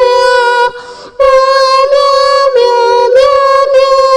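A high voice singing a tune in long held notes that step from pitch to pitch, with a short break about a second in.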